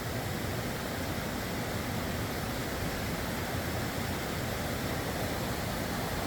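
Steady rush of a waterfall and creek, an even noise with no breaks.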